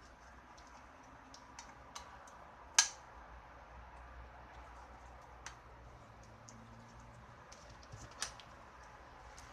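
Irregular light clicks and taps of small hard objects, with one sharp, louder click about three seconds in and another a little after eight seconds, over a low steady hum.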